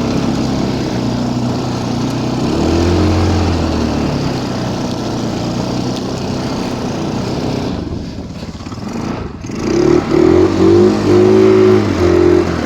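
Stels Kapitan Long snowmobile engine running at low speed while the machine turns around slowly, easing off about eight seconds in, then revved in repeated throttle bursts near the end.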